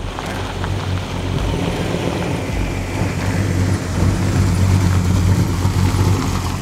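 A car engine running steadily with a low rumble, over a haze of outdoor noise.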